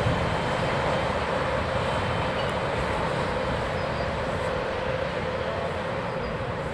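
Freight train rolling along the line, a steady rumble that slowly fades as it moves away.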